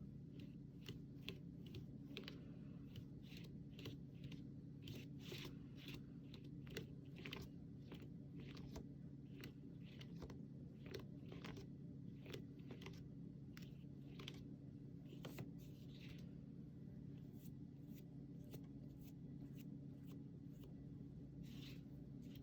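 Flat paintbrush scratching and dabbing acrylic paint onto canvas in short, irregular strokes, many in quick succession and then fewer for the last several seconds. A faint steady low hum runs underneath.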